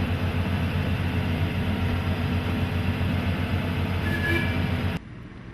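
Ride-on miniature train running close by: a dense rumble with a fast low pulsing and a brief high tone about four seconds in. The sound cuts off suddenly about five seconds in.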